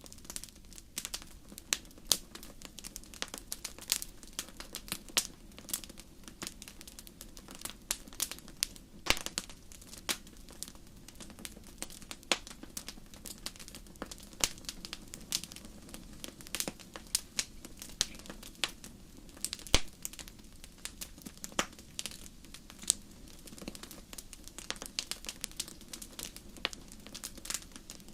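Wood fire crackling in a fireplace: dense, irregular sharp pops and snaps, a few louder ones, over a steady low rumble of the flames.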